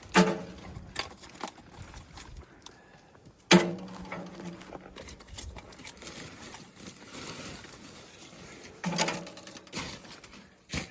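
Three sharp metallic strikes a few seconds apart, each ringing on briefly with a clear tone, over a faint steady hiss.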